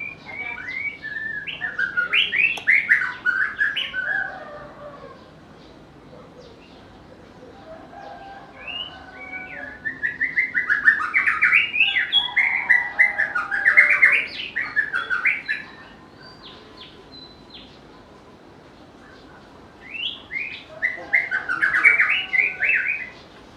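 White-rumped shama singing: three bursts of rapid, varied whistled notes, with pauses of a few seconds between them.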